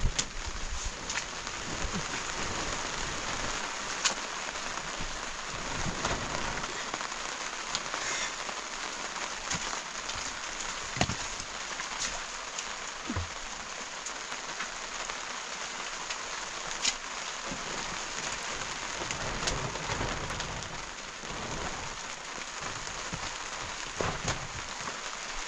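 Steady rain falling, with now and then a sharper tap of a single drop.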